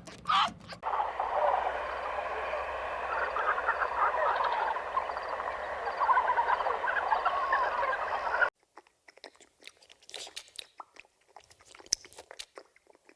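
Dense chorus of many small animal calls chattering over one another, cutting off abruptly about eight seconds in; then only sparse faint crunching clicks.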